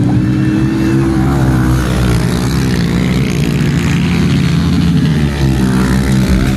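Dirt bike engines running in a steady, loud drone, their pitch wavering a little but never climbing into a full rev; the sound cuts off suddenly at the end.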